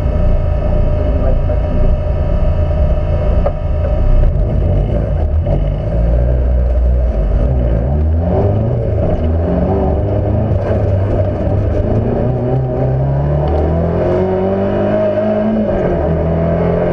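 Fiat Cinquecento's engine heard from on board, running loudly and then, from about halfway, revving up in repeated rising sweeps as it accelerates through the gears.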